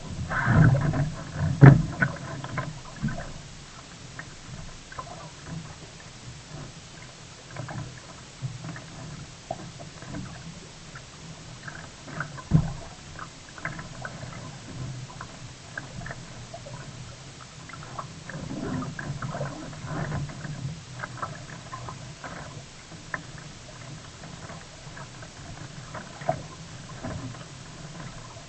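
Water splashing and lapping around a sea kayak, with irregular sharp knocks, most likely the paddle or hull. It is busiest in the first two seconds, with a single loud knock about halfway through.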